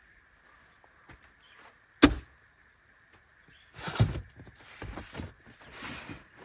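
A storage door or compartment on a camping truck being opened: one sharp click about two seconds in, then several short scuffing, knocking handling sounds.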